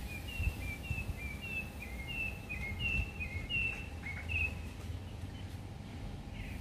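A bird singing a quick run of short chirps that stops about four and a half seconds in, over a steady low rumble of outdoor background noise.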